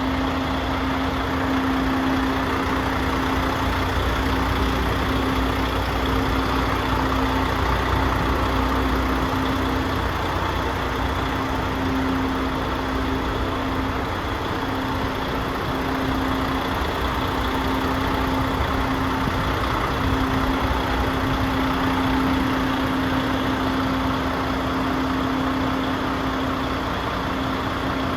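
DAF CF85 tractor unit's Paccar 460 bhp diesel engine idling steadily, with a constant droning tone over its rumble. The deep low rumble eases a little about a third of the way in.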